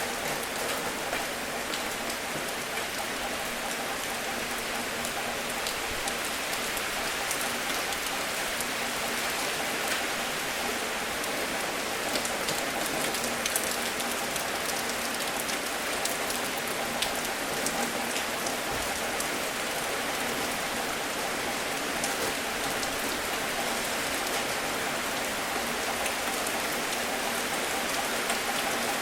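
Steady rain falling, with many individual raindrops ticking sharply against a surface over the continuous hiss.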